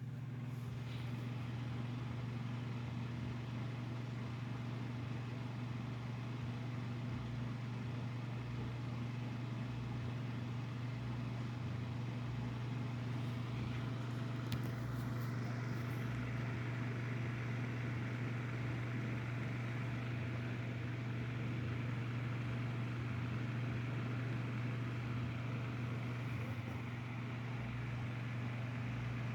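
Mainstays 9-inch personal box fan (model MBF-918) running on its low speed: a steady electric-motor hum under the even rush of air from the blades. There is a brief click about halfway through, after which the air noise is a little stronger.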